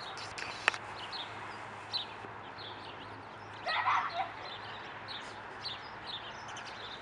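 Small birds chirping outdoors: short high chirps every half second or so over a steady background hiss. A sharp click comes just under a second in, and a brief louder burst about four seconds in.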